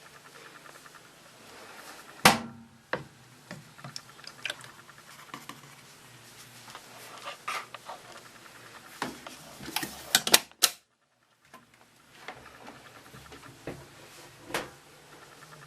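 Hoover HTC 172 front-loading washing machine running on a synthetics 40 °C cycle with prewash: a low steady hum with irregular clicks and knocks, the loudest knock about two seconds in. The sound cuts out completely for under a second about two-thirds of the way through.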